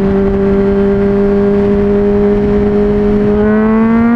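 Honda CBR600RR's inline-four running through a new MGP Growler exhaust, held at steady raised revs, then the revs climb smoothly a little over three seconds in.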